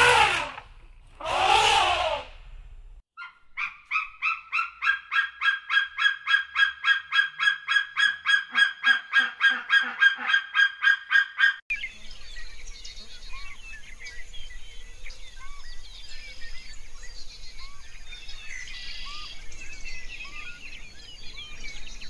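Two loud elephant calls at the start. Then a bird calls in a fast, even series of about four notes a second for some eight seconds, cut off suddenly. After that come faint scattered chirps over a steady hiss.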